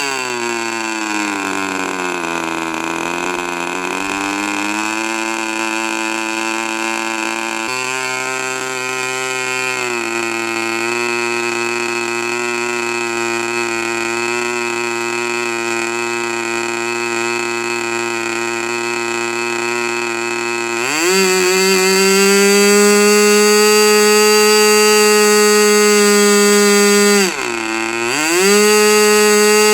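K&B .40 R/C model glow engine running. It throttles back to a low idle at the start, picks up slightly about eight seconds in, then opens up to high speed about twenty seconds in, with a brief dip near the end before it picks up again.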